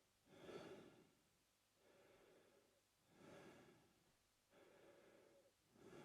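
A man breathing slowly and evenly through his mouth. The breaths come as a regular cycle of a short, louder breath and then a longer, softer one, a little under three seconds per cycle.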